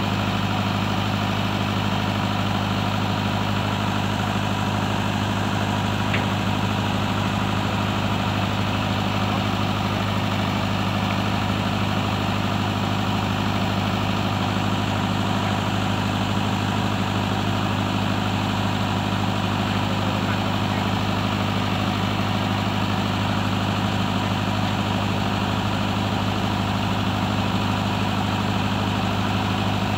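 Caterpillar 320C excavator's diesel engine idling steadily.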